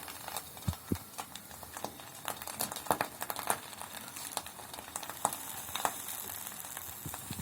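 An egg frying in oil in a pan, sizzling with many small irregular crackles and pops.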